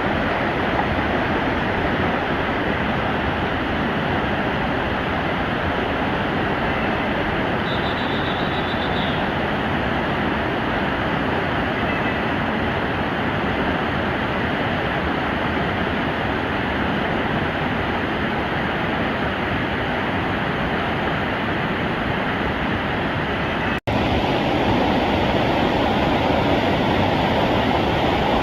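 Steady rush of a mountain stream's water flowing over rocks. It breaks off for an instant a little before the end and resumes with a slightly different tone.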